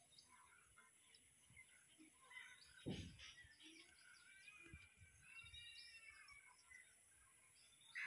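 Faint outdoor ambience with scattered faint bird chirps and a short call near the middle, broken by a low thump about three seconds in.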